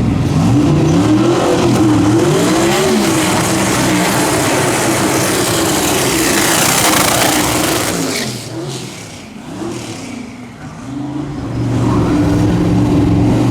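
Twin-turbo V8 dragster engine revving up and down, then running at full throttle as a loud rush that falls away about eight seconds in. A steady engine sound comes back near the end.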